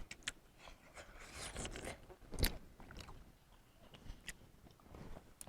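A person biting and chewing fruit: scattered small crunching clicks and wet mouth noises, the loudest about two and a half seconds in.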